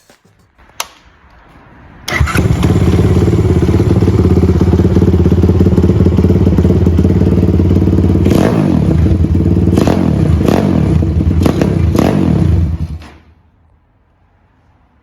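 Motorcycle engine, a swapped-in Zongshen 190 cc single-cylinder four-stroke, starting up about two seconds in after a single click. It runs steadily with a few short revs, then is shut off abruptly near the end.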